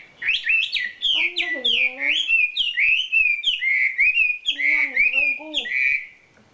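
Wambi songbird singing a fast, varied run of whistled chirps and trills, with lower notes joining in twice. The song stops about six seconds in.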